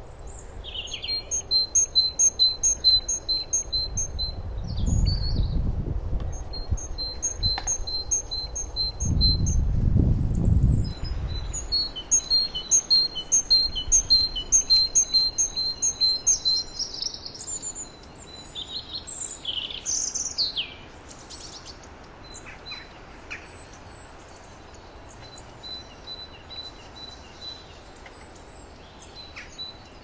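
Small forest birds calling: several runs of short, high, evenly spaced notes, three or four a second, with a few downward-slurred calls past the middle and fainter repeated notes near the end. Two low rumbles swell and fade in the first third.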